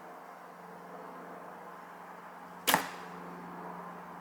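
A 54-inch ILF recurve bow (VPA Vapor aluminium riser, Ragim XT-100 short limbs, about 39 lb) shooting a very light 213-grain, 1000-spine arrow: one sharp crack of the shot about two-thirds of the way in, over a faint steady hum.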